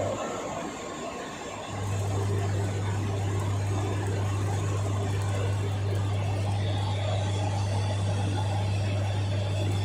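Gas-fired heat-treatment furnace running with a steady roar. A loud, deep hum comes in about two seconds in and holds steady.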